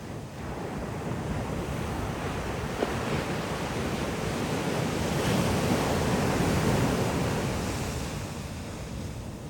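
Sea surf: a wave swells, breaks and washes in, loudest about two-thirds of the way through, then eases off, with wind buffeting the microphone.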